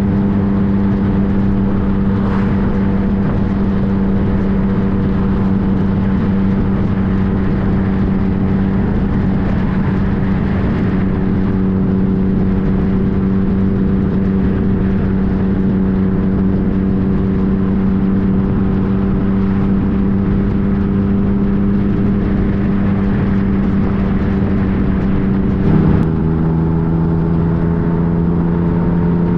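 Yamaha FJ-09's inline-three engine running at a steady pitch under a rush of wind and road noise while riding. Near the end the engine note drops suddenly as the rider shifts up a gear, then slowly climbs again.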